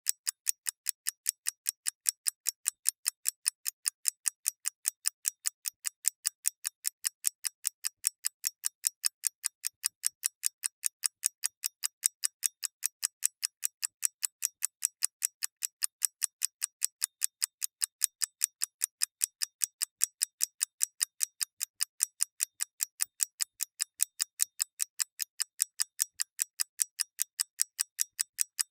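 Mechanical clock ticking fast and evenly, crisp clicks in a steady tick-tock rhythm with no pause.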